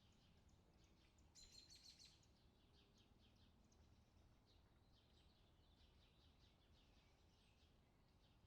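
Faint bird chirps in quick runs, with a louder flurry about a second and a half in, over a faint low rumble.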